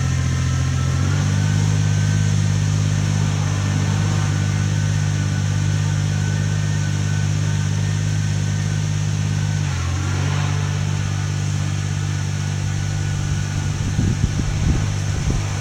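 A motor running steadily with a low hum. Its pitch steps up about a second in and drops slightly near ten seconds in.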